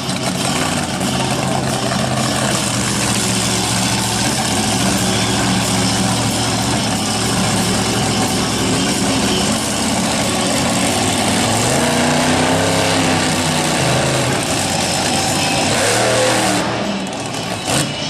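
Monster truck's supercharged V8 engine running hard over a wash of arena noise, revving up and back down about two-thirds of the way through.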